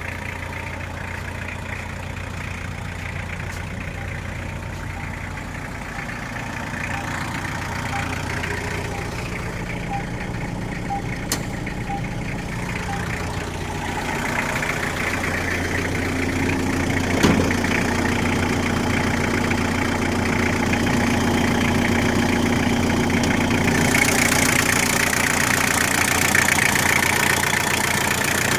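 Toyota Blizzard engine idling steadily, growing gradually louder through the second half, with one sharp click about seventeen seconds in.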